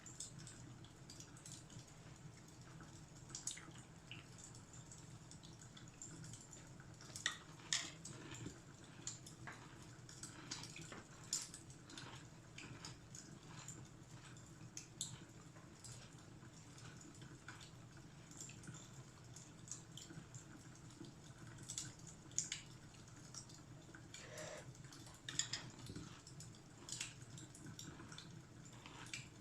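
Fireplace fire crackling: irregular sharp pops and snaps, a few louder than the rest, over a low steady rumble.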